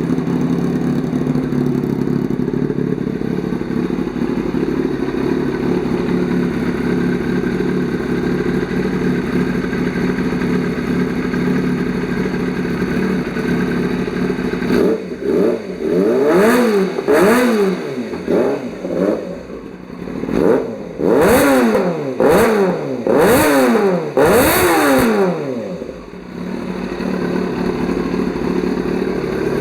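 2005 Yamaha R6's inline-four engine idling steadily. About halfway through it is revved in a run of quick throttle blips, each rising and falling in pitch, then it settles back to idle near the end.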